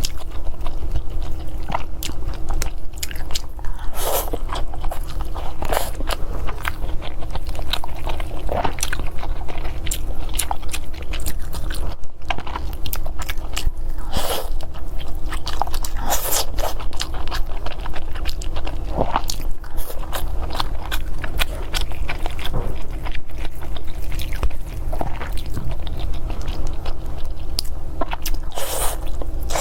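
A person chewing and biting into glutinous rice and meat close to the microphone, with irregular wet clicks and a few louder bites. A steady low hum runs underneath.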